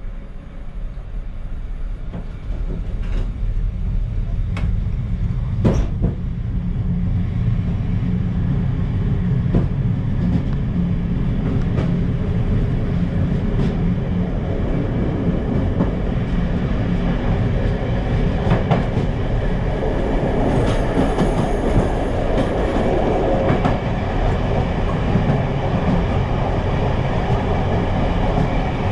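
Passenger train running on the rails, heard from the rear of the train as it pulls away and gathers speed: a rumble of wheels on track that grows louder over the first several seconds, then holds steady. A few sharp clacks of the wheels come in the first ten seconds.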